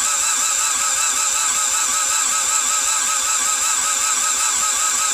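Toyota MR2's 4A-GE 1.6-litre 16-valve four-cylinder being cranked over by its starter, an even rhythmic chugging with a high whine, without ever firing. It stops suddenly near the end. It is a crank-no-start: no fuel comes from the return line, which the owner takes as the fuel pump not running.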